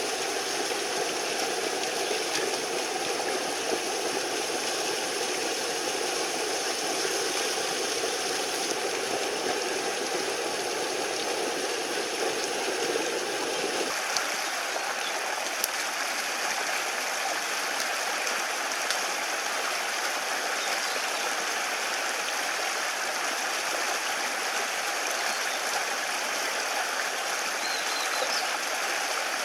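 Mountain stream flowing: a steady rush of water. About halfway through, the deeper part of the rush drops away suddenly, leaving a thinner, higher rush.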